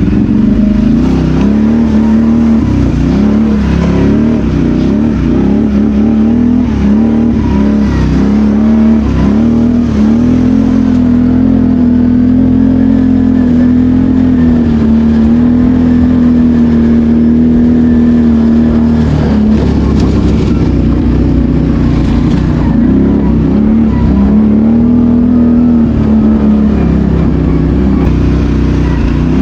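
BRP Outlander 650 quad bike's V-twin engine under riding load, its pitch dropping and climbing back again and again with the throttle, held level for several seconds in the middle.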